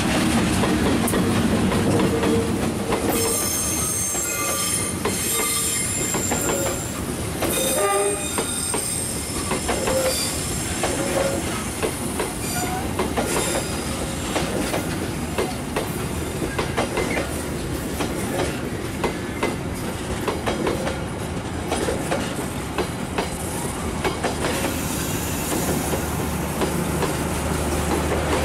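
Passenger train passing close by. A diesel locomotive's engine rumble comes first, then the carriages clack over the rail joints. High-pitched wheel squeals sound on and off from about three to ten seconds in.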